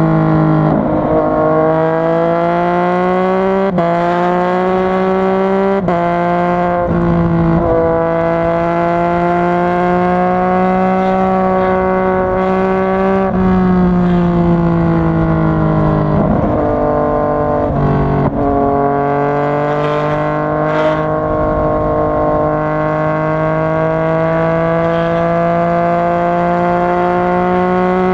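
Yamaha MT-09's three-cylinder engine running under way at a fairly steady pitch. The pitch briefly breaks and steps several times, at about 4, 6, 7, 13, 16 and 18 seconds, as the bike shifts gear or rolls the throttle on and off.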